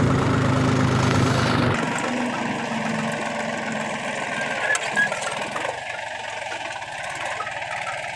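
Mahindra 275 TU XP Plus tractor's diesel engine running; its deep, loud rumble drops away about two seconds in, leaving a quieter steady engine sound, with a brief sharp sound near the middle.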